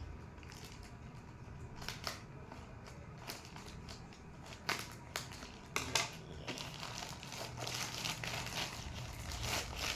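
Toy packaging being handled and opened by hand: crinkling and rustling of wrapping, with scattered sharp clicks and a denser stretch of rustling in the last few seconds.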